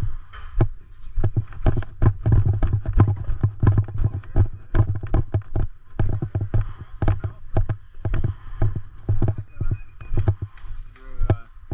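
Footsteps of a player on the move, irregular thuds several times a second with gear knocking along.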